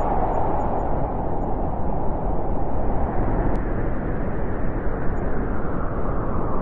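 Steady wind blowing, a low even rush without gusts or breaks.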